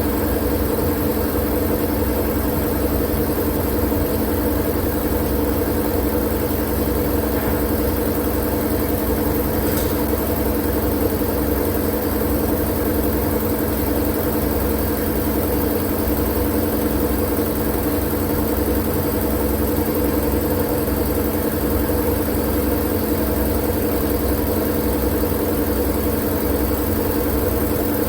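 Steady sleep-aid white noise, unbroken and unchanging, weighted toward a low rumble and hum like an idling engine.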